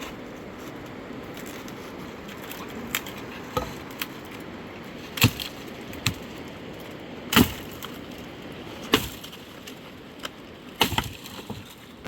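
Sharp cracks and knocks of wood being struck or broken, irregularly spaced about a second or more apart; the loudest come about five and seven seconds in.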